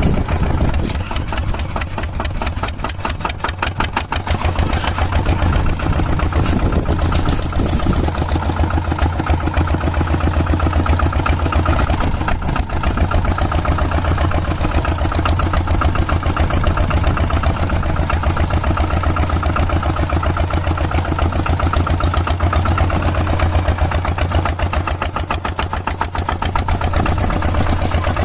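Mini tractor engine running steadily with a rapid, even firing rhythm.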